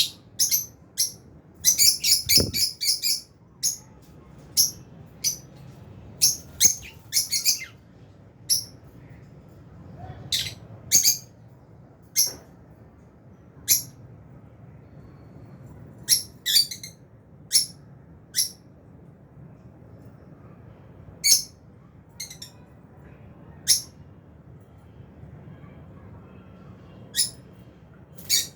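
Fisher's and albino lovebirds giving short, high-pitched chirps at irregular intervals, with a quick run of chirps about two seconds in.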